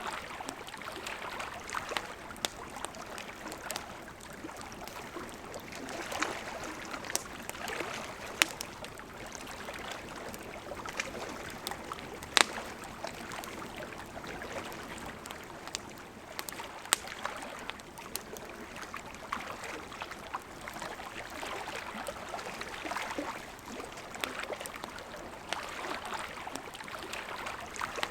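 A river's steady rushing flow with a campfire crackling over it: irregular sharp pops and snaps, the loudest about twelve seconds in.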